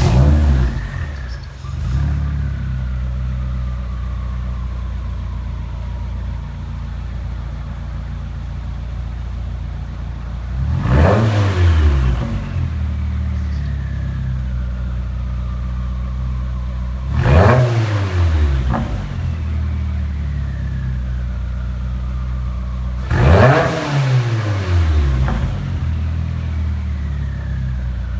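2015 Subaru WRX's turbocharged 2.0-litre flat-four with a Mishimoto turbo-back exhaust, idling and blipped four times. After each rev a whistle falls slowly in pitch over several seconds.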